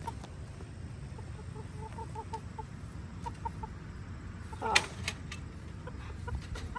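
Chickens clucking in short runs of quick repeated notes, with one sudden loud sound about four and a half seconds in.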